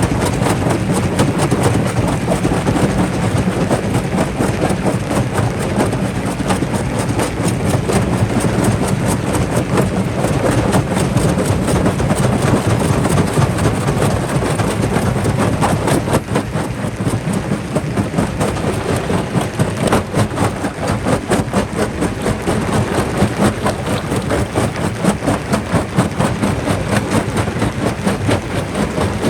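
Jaw rock crusher running and crushing rock: a steady low machine drone under a dense, continuous clatter of cracking and knocking stone.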